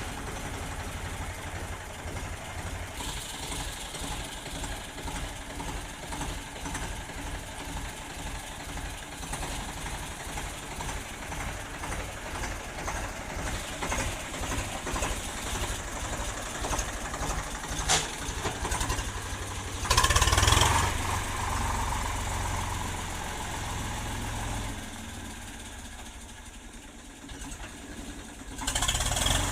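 Tractor's diesel engine idling with a steady pulsing beat. About twenty seconds in there is a short loud burst of noise, and the engine runs heavier for a few seconds after it.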